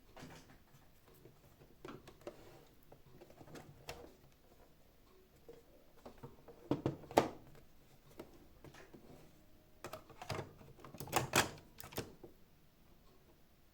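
Scattered clicks and knocks of the plastic housing and parts of a Xiaomi Mijia 1C robot vacuum being handled as it is taken apart, loudest in a quick cluster about halfway through and again about three-quarters of the way in.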